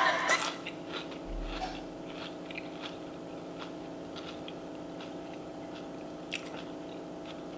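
A person chewing food with faint, scattered wet mouth clicks over a steady low hum. Music from a played clip cuts off about half a second in.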